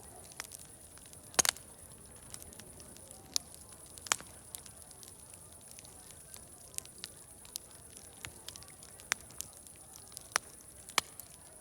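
Wood fire crackling: irregular sharp pops and snaps, two of them louder about a second and a half and four seconds in, over a steady high-pitched hiss.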